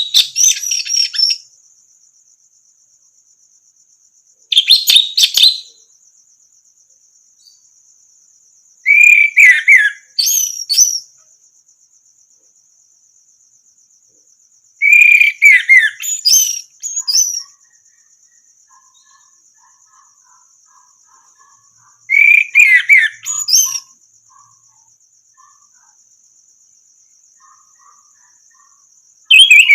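Orange-headed thrush (anis merah) singing in separate bursts of varied, rich whistled phrases with quick pitch glides, five bursts a few seconds apart with pauses between. A faint steady high buzz runs underneath.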